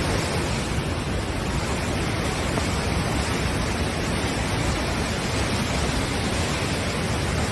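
Floodwater rushing, a loud steady roar with no breaks.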